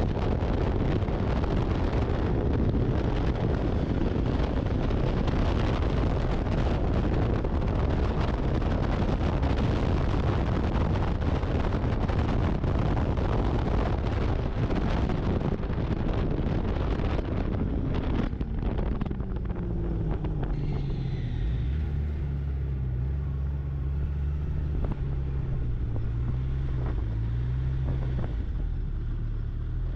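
Snowmobile engine running at speed under heavy wind noise on the microphone. About 18 seconds in the engine pitch falls as the machine slows, and it settles into a low, steady run with slight rises and falls in pitch.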